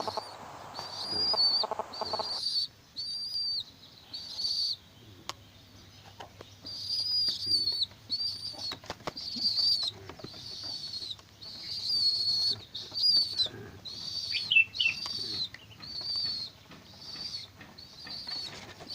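A tame bird calling over and over: high, thin, steady-pitched notes about one a second, with a rustle in the first two seconds.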